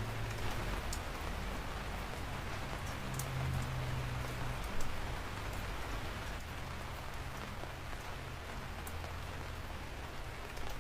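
Steady rain falling, with a few sharp drop ticks scattered through.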